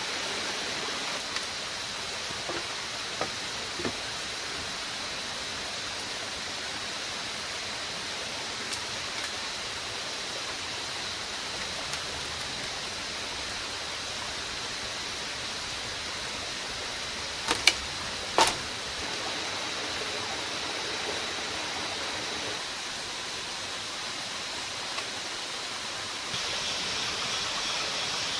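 Steady rushing noise of rainforest ambience with a constant thin high tone over it. There are a few light clicks in the first four seconds and two or three sharp knocks about two-thirds of the way through. Near the end a higher hiss comes in and stays.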